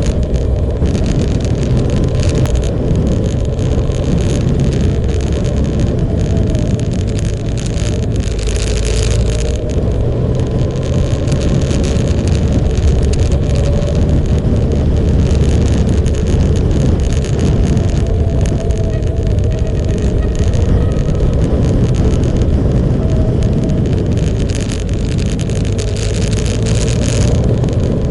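Motorcycle engine running while riding, its pitch drifting gently up and down with speed, over a steady low rush of wind noise.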